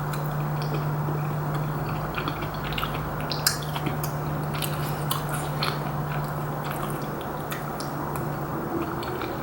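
A person chewing Korean rice cake and dumpling soup, with small wet mouth clicks, over a steady low hum.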